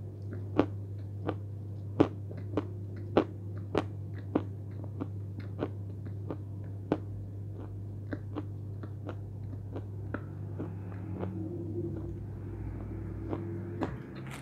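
A person chewing a lump of natural Khrapovsky chalk with the mouth closed: sharp crunches come about every two-thirds of a second and grow fainter as the piece is ground down, over a steady low hum.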